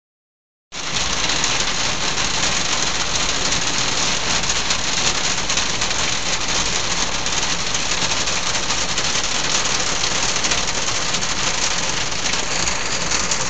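Steady rain falling, an even hiss that starts suddenly just under a second in and holds at one level throughout.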